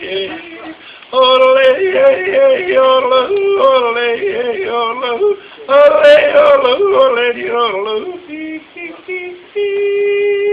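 A man yodeling, his voice flipping quickly back and forth between a low and a high note, with short breaks, and ending on one long held note near the end.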